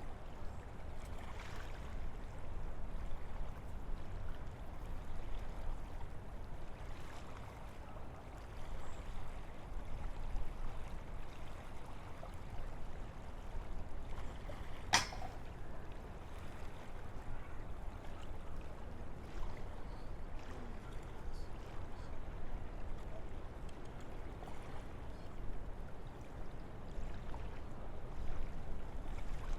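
Wind blowing through forest trees, a steady rushing that swells and eases a little. A single sharp click about halfway through.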